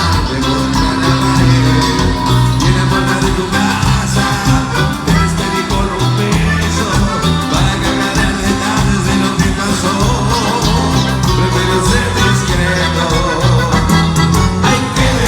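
Cuarteto band music playing loudly with a steady, repeating bass line, mostly instrumental, with a little voice in it.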